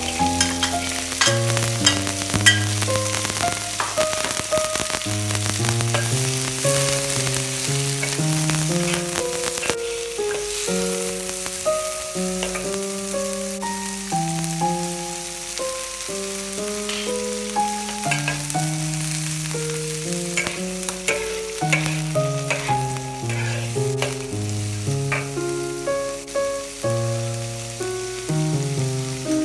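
Chopped green beans sizzling in hot oil in a wok, stirred with a metal spatula that scrapes and clicks against the pan. Background music with a melody of steady notes plays throughout.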